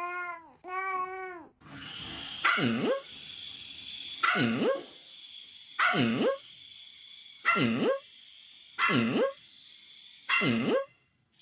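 A dog barking six times in a steady rhythm, about one bark every second and a half, each bark dipping in pitch and rising again. Before the barks come two drawn-out calls that rise and fall in pitch.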